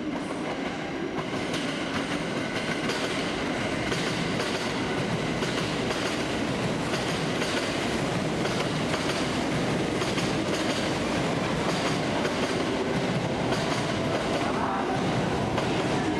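Train running on the rails, its wheels clicking over rail joints, with the noise slowly growing louder.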